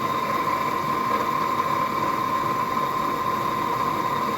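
Forge air blower running steadily: a constant rush of air with a steady high whine.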